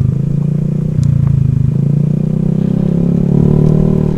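Honda Vario scooter's single-cylinder engine running while riding, a steady low drone whose level steps up about a second in and drops again a little later.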